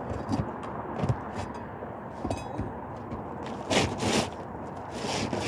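Pry bar working under asphalt roof shingles to pry them loose: a series of short, irregular scrapes and cracks, loudest about four seconds in, over a steady background noise.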